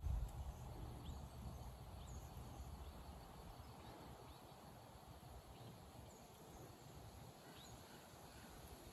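Quiet outdoor ambience: scattered short, falling bird chirps, a few every couple of seconds, over a faint steady background hiss. A brief low rumble sounds at the very start.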